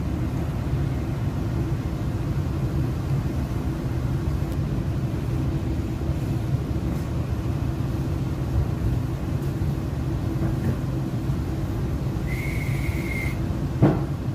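Inside an MTR East Rail Line R-Train electric train, a steady low rumble as it runs along a station platform. About twelve seconds in there is a short hiss with a high steady tone lasting about a second, and just before the end a single sharp knock.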